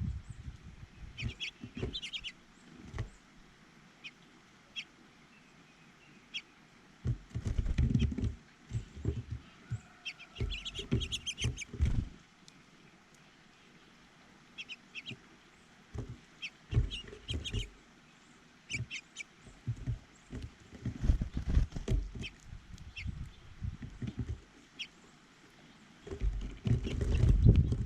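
Small birds at a feeder chirping: scattered short high calls, with a quick run of notes about ten to twelve seconds in. Repeated low rumbling thumps close to the microphone, loudest about eight seconds in and near the end.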